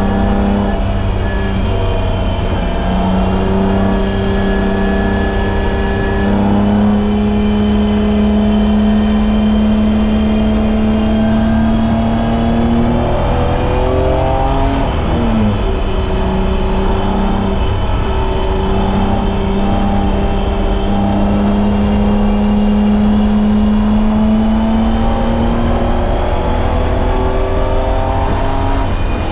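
BMW E30's M20B25 straight-six engine at full throttle, its note climbing in steps through the revs. About halfway through, the revs fall off and then pick up and climb again.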